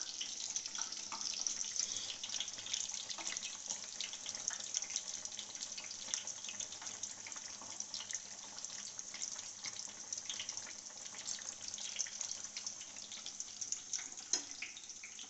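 Batter-coated jackfruit bajji deep-frying in hot oil: a steady sizzle full of small crackles and pops.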